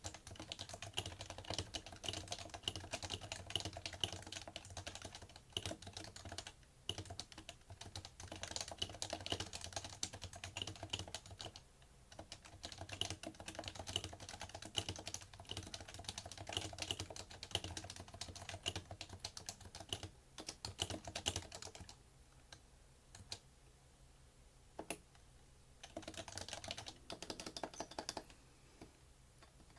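Typing on a PFU Happy Hacking Keyboard Professional2 with Topre electrostatic capacitive switches, a fast run of keystrokes whose sound carries into the desk. About two-thirds through the typing pauses to a few single keystrokes, then a short burst follows before it stops near the end.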